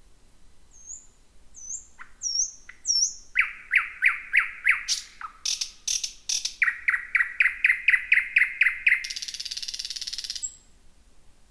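Thrush nightingale singing one song phrase: a few thin, high whistles, then fast runs of loud repeated notes, about five or six a second, ending in a dry rattle of about a second and a half that stops abruptly.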